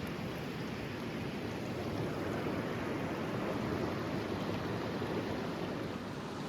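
Steady rushing noise with no distinct events, strongest in the lower-middle range.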